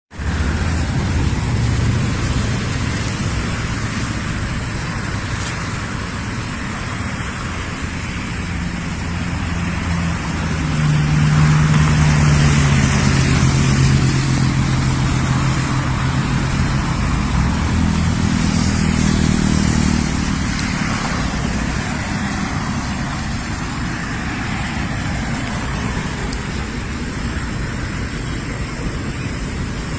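A motor vehicle's engine running, with its hum rising in pitch and getting louder about eleven seconds in, then easing back after about twenty seconds, over a steady road-noise haze.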